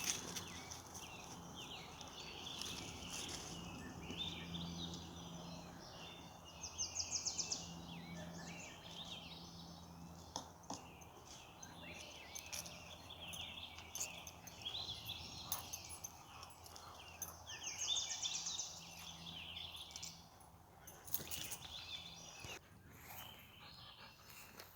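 Songbirds singing and chirping over one another, with rapid high trills standing out twice, over a steady low hum. There are a few sharp clicks near the middle and again near the end.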